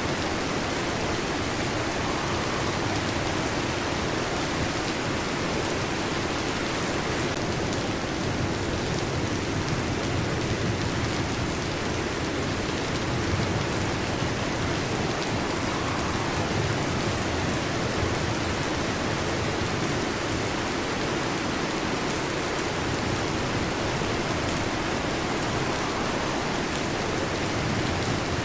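Heavy rain falling steadily on a metal roof, an even, unbroken patter.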